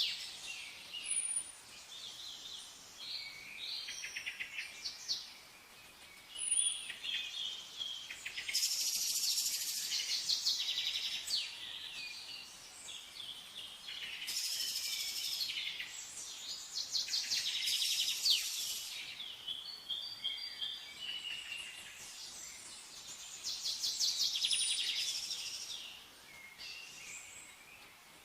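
Wild birds singing: bursts of rapid, high notes lasting a second or two repeat every few seconds, with short, sharp, higher chirps between them.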